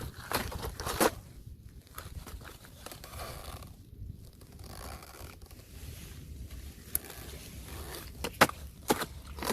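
Fresh ice cracking and scraping. There are sharp cracks about a second in and a cluster of them near the end, with softer scraping between.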